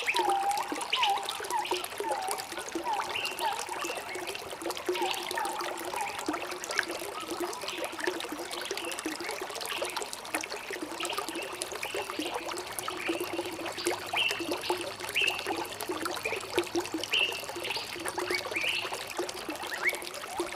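Running water trickling and gurgling steadily, with short bird chirps repeated over it, a run of lower dipping calls in the first few seconds and higher chirps throughout.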